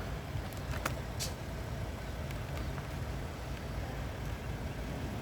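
Low, steady engine rumble with a couple of faint clicks about a second in.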